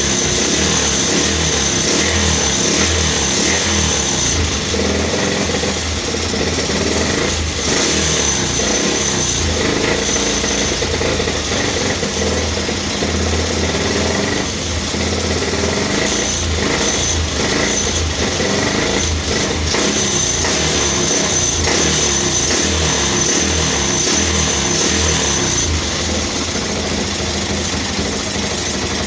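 Carburetted Yamaha Vixion 150 cc single-cylinder four-stroke engine running steadily on a test start. Everything around it rattles because the engine is not yet bolted tight into the frame.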